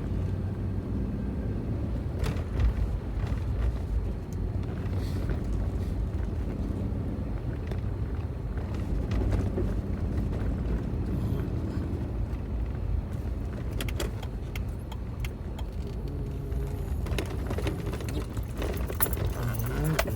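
Vehicle running with a steady low engine and road rumble, with light clicks and a jingle like keys in the last few seconds.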